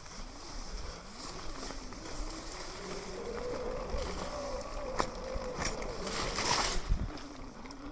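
Sur-Ron electric dirt bike's motor whining, its pitch rising as the bike pulls through a rough, muddy trail section and falling again near the end, with a few sharp knocks from the bike over the ground.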